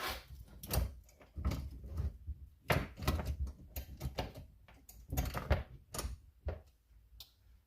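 Irregular metal clicks, clanks and knocks of chainsaw parts being handled as the bar and chain are fitted back on, some strokes with a dull thud under them.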